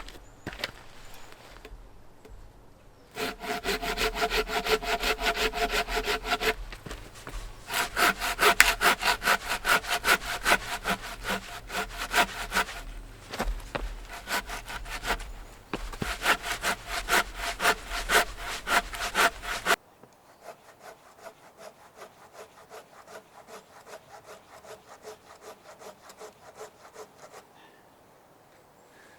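Hand saw cutting through a log of fallen-tree wood for firewood, in quick, even back-and-forth strokes. The sawing comes in several runs with short pauses between them, and the last run is much quieter.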